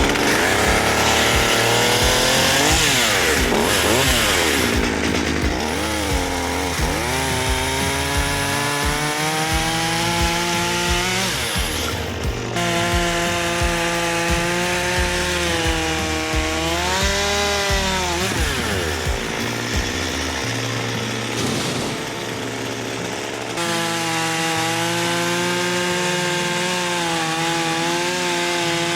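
Chainsaw running and cutting through logs, its engine note rising at full throttle and dipping under load, with a few abrupt breaks.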